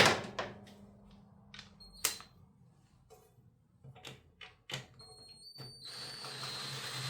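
Hand tools working on the Honda Trail 90's exhaust fasteners: a loud metallic clank at the start that rings on, a sharp click about two seconds in and scattered light clicks, then a small power tool running with a thin whine for about a second and a half near the end.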